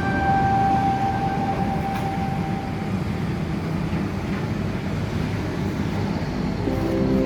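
Tractor engine running steadily, a low rumbling noise. A held music note fades out over the first few seconds and music comes back in near the end.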